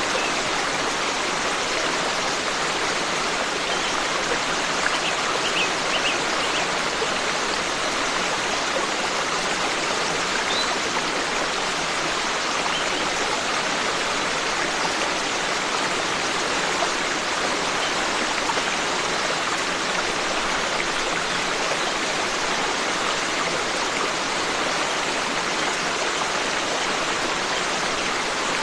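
Forest stream flowing steadily with an even rush of water, with a few faint high bird chirps about five to six seconds in.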